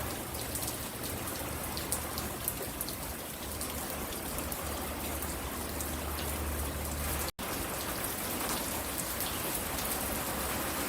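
Steady rain falling, with individual drops ticking close by over the even hiss. The sound cuts out completely for an instant about seven seconds in.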